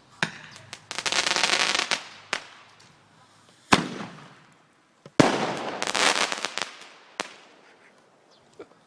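Fireworks going off: about five sharp bangs, with two spells of dense crackling, one about a second in and a longer one about five seconds in.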